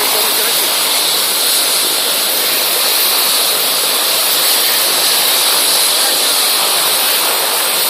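Rescue helicopter's turbine engines and rotor running steadily on the ground before lift-off: an even rushing noise with a high, steady whine.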